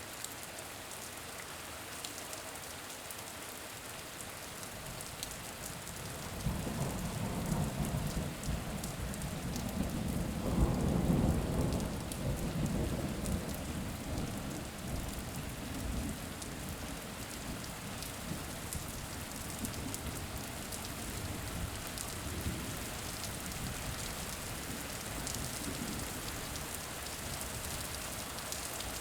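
Steady rain with scattered drop ticks, and a long low rumble of thunder that builds about six seconds in, peaks a few seconds later and slowly rolls away.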